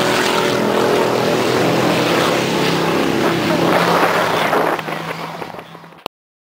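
A vehicle engine running steadily amid a wash of noise, fading away about five seconds in before the sound cuts off abruptly.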